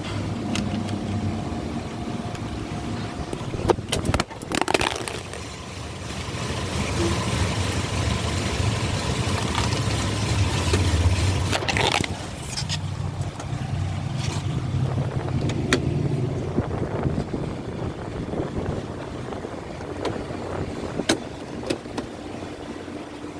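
Tunnel car wash equipment running: a steady low motor hum under a rushing spray-and-brush noise that swells and eases, with scattered sharp knocks.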